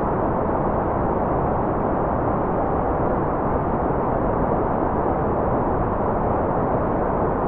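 Continuous generated white noise, filtered so that its highs are rolled off: a steady, unchanging, dull rushing hiss with no events in it.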